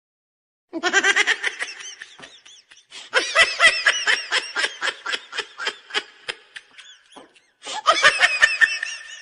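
Cartoon laughing sound effect: high-pitched laughter in quick pulses, coming in three bouts with short breaks about two and a half and seven and a half seconds in.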